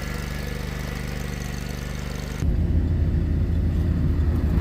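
A vehicle engine running steadily, then about halfway through the sound switches abruptly to a louder, deeper engine rumble.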